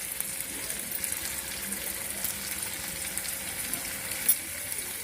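Chicken masala sizzling in the pan: a steady crackling hiss, with one sharp click a little over four seconds in.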